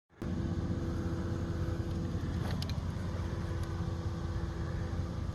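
Steady low rumble with a constant hum from a running motor, with a few faint clicks about two and a half seconds in.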